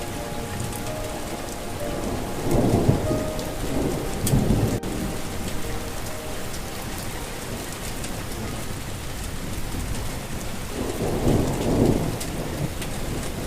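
Steady rain falling, with rolling thunder rumbling up three times: twice a few seconds in and again near the end.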